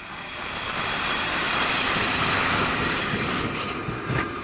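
ЭП1 electric locomotive passing slowly at the head of a passenger train: a broad rushing noise that swells to a peak about two seconds in and then eases off, with a few low thumps near the end.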